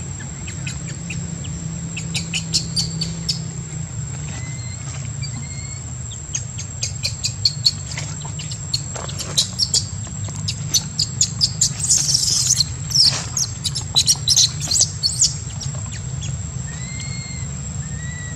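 Birds chirping: many short, sharp high chirps in a busy flurry through the middle, with a few short slurred whistles near the start and end, over a steady low hum.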